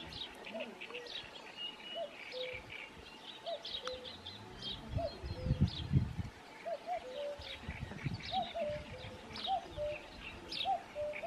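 Several small birds singing and calling together: quick high chirps and trills over a lower note repeated about once a second. A low rumble about halfway through is the loudest part.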